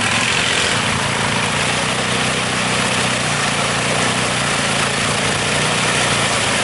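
ATV (quad bike) engine running at a fairly steady speed, with a constant hiss over the engine hum.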